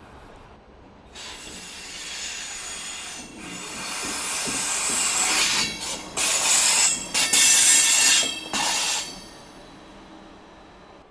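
Train running on rails with a high metallic squeal from its wheels. The sound builds, is loudest about five to eight seconds in, then fades away.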